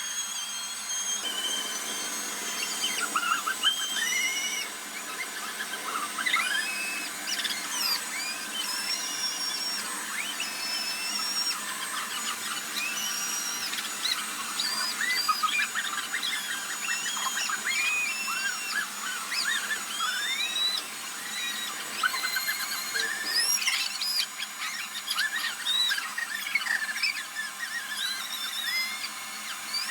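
A giant latex balloon squeaking and rubbing over and over, with many short rising and falling squeals, over a steady high-pitched hiss from the air being pumped in.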